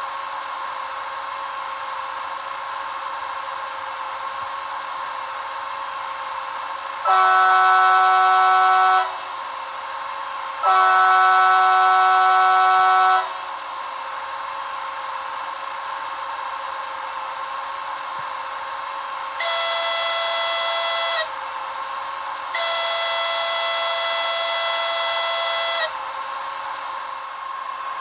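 Model electric locomotive's DCC sound decoder playing a steady machinery hum through its small speaker, with two long horn blasts about 7 and 11 seconds in. Two quieter blasts of a differently pitched horn follow later.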